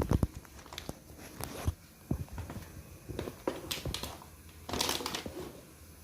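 Kitchen handling sounds: scattered clicks and knocks of utensils and dishes, with a brief crinkling rustle of paper towel about five seconds in.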